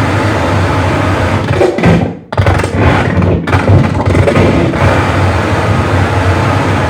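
Live harsh noise music: a loud wall of distorted electronic noise with a heavy low rumble. About two seconds in it sweeps down and drops out for a moment, then comes back choppy and stuttering for a couple of seconds before settling into a steady roar again.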